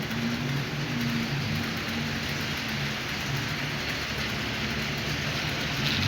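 HO-scale model train with a C36 model diesel locomotive running steadily on the track: a continuous rolling rattle of wheels on rail over a low, wavering motor hum.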